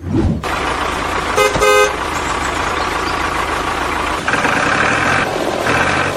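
A motor vehicle running, with two short horn toots about a second and a half in and a steady higher tone sounding twice later on.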